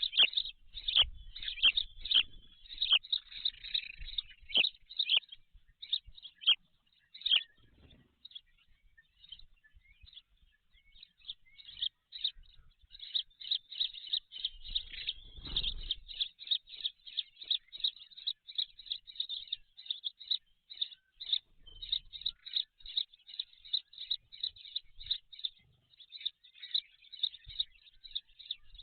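Birds chirping: a rapid, continuous run of short, high chirps, several a second, with a few sharp clicks in the first seven seconds and a brief low rumble about halfway through.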